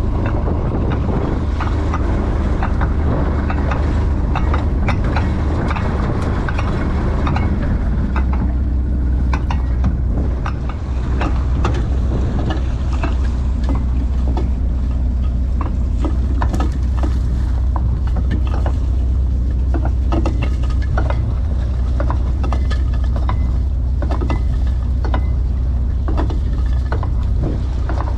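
Fishing trawler's engine running with a steady low drone, with many short clicks and knocks scattered over it.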